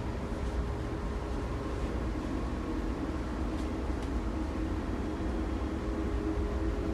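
Steady running noise of a 415 series electric train heard from inside the car: a continuous low rumble with a faint steady hum over it.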